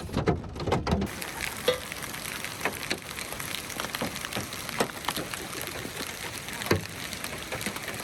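Rain falling on a vehicle, with a steady hiss and many scattered sharp drop hits.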